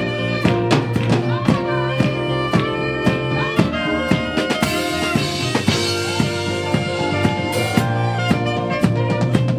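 Live gospel band music with a drum kit keeping a steady beat under sustained instrumental chords, with cymbal crashes about halfway through and again near the end.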